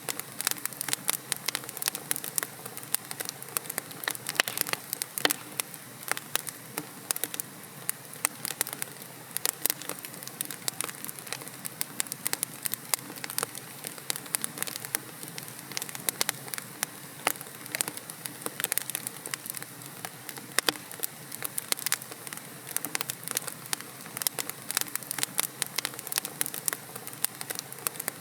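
Wood logs burning in a fireplace: a steady soft hiss with dense, irregular crackles and pops throughout.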